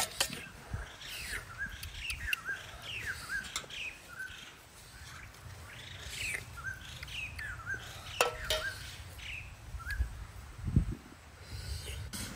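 A bird chirping over and over, short quick calls with flicking pitch. There are two sharp knocks, one at the very start and one about eight seconds in.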